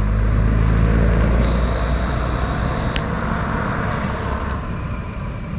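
Heritage railway train running with a heavy low engine rumble that slowly fades as it moves away, with a single sharp click about three seconds in.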